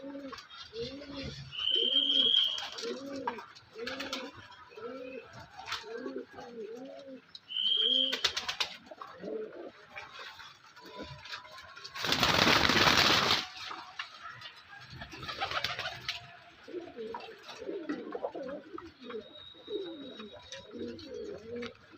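Domestic pigeons cooing over and over in a steady run of low, rounded calls, with a couple of short high chirps. About halfway through, a loud burst of noise lasting about a second and a half covers the cooing.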